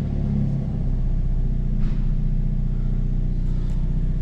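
Car engine idling steadily with a low, even hum, heard from inside the cabin.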